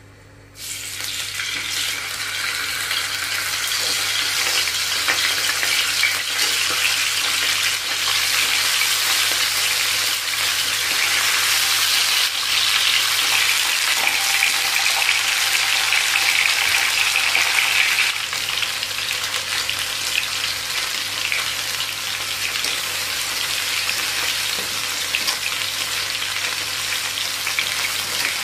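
Food frying in hot oil in a pan: a steady crackling sizzle that starts about half a second in and eases slightly about two-thirds of the way through.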